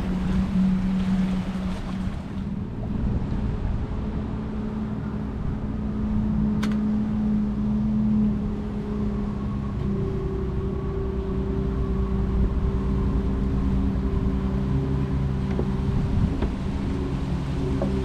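Boat motor running steadily, its pitch shifting a couple of times, over wind and water noise, with a single sharp click about a third of the way in.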